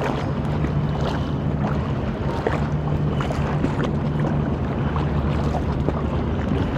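A river boat's engine running with a steady low drone, mixed with water splashing and wind.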